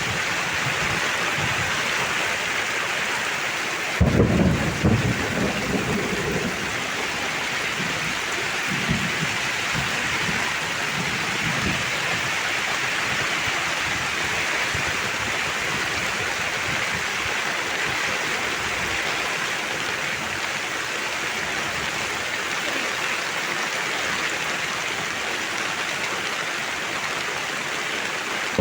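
Heavy rain falling steadily, with a sudden loud thunderclap about four seconds in that rumbles away over a couple of seconds, followed by a few fainter rolls of thunder.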